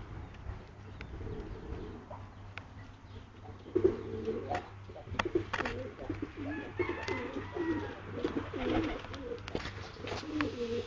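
Pigeons cooing: low, warbling coos repeat one after another from about four seconds in, with scattered sharp clicks and a steady low hum beneath.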